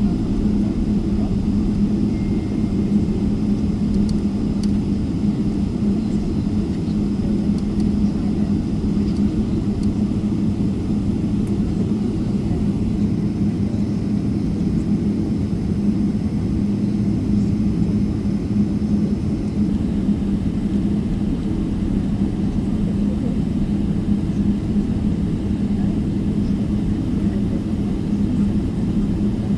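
Steady drone of a Boeing 777-300ER's GE90 jet engines and airflow, heard from inside the passenger cabin.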